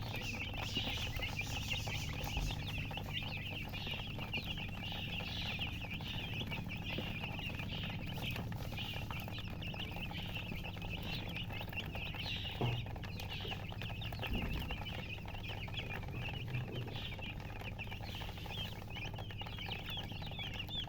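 Newly hatched chicks peeping continuously, many short high-pitched chirps overlapping in a dense chorus.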